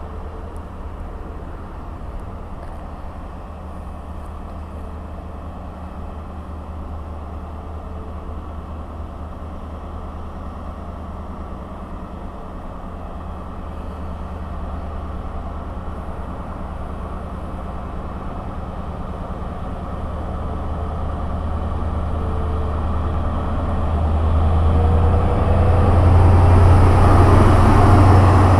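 Diesel train engine with a steady low hum, growing louder over the last several seconds as the train draws closer.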